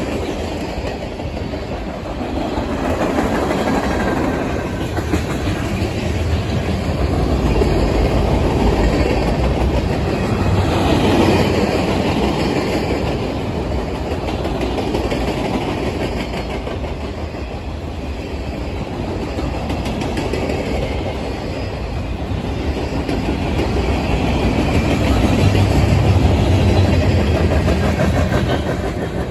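Freight cars of a mixed train rolling past: tank cars, covered hoppers and open hoppers, their steel wheels rumbling and clacking over the rail joints. The sound swells and eases as the cars go by.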